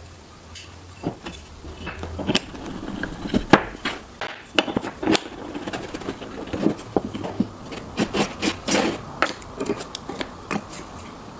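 Wooden pieces being handled on a workbench: irregular knocks, taps and rubbing of wood on wood, with a few louder clacks.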